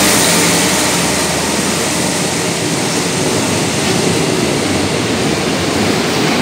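Freight train of oil tank wagons rolling through the station close by: a steady, loud rush and rumble of wheels on rails. The drone of the Alsthom diesel-electric locomotive's engine fades in the first second as it goes past.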